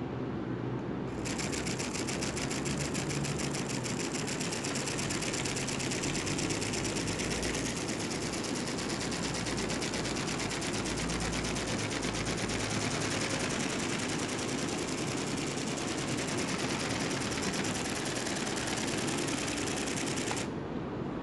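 A homemade robotic bird's small mechanism running with a fast, even, mechanical rattle that starts about a second in and cuts off sharply near the end, over a steady background hiss.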